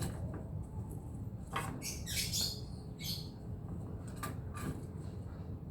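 Light clicks and knocks of kitchen utensils over a steady low hum, with brief high chirps about two and three seconds in.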